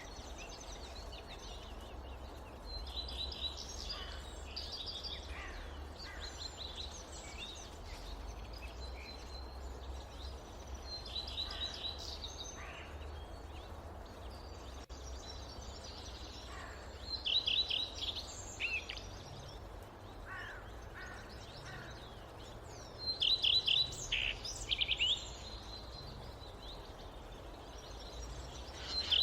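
Forest birds chirping and calling, with bouts of rapid chirp series that grow louder in the second half, over a steady low rumble.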